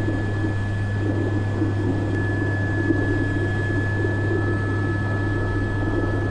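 Steady cockpit noise of an Airbus AS350 B3 (H125) helicopter in flight: a constant low drone of rotor and turbine engine with a thin, steady high whine above it.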